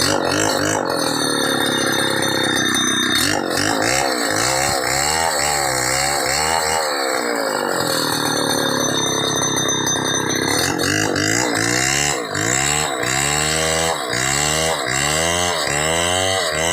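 Chainsaw running and cutting wood, its engine pitch rising and falling again and again as it works through the cut. From about eleven seconds in, the pitch swings faster, roughly one and a half times a second.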